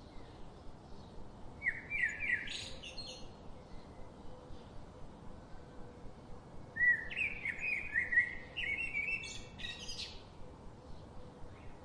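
A small bird singing two short phrases of quick chirping notes, one about two seconds in and a longer one around seven seconds in, over a steady faint background hiss.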